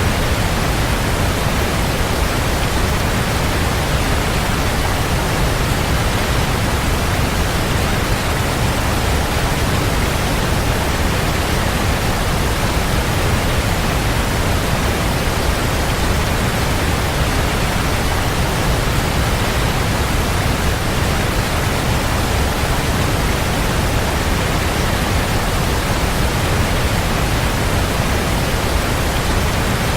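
Waterfall: a steady, even rush of falling water, heavy in the low end, with no change throughout.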